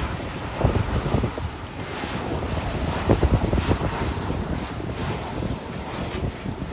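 Airliner engines rumbling steadily as a plane passes the airport, a dense roar with uneven swells in the low end.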